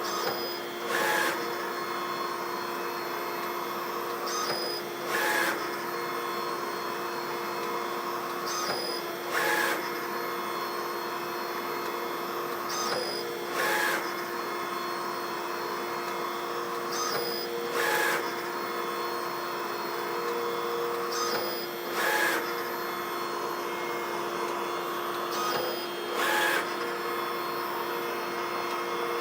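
A machine running with a steady hum, broken about every four seconds by a short, louder noise, seven times in a row at an even pace: the recurring noise in the machine.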